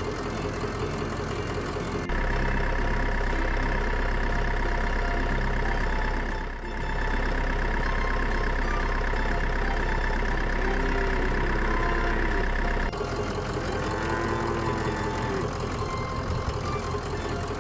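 Heavy vehicle engine running steadily, in sections that change abruptly about two seconds in and again near thirteen seconds, with a short dip in between.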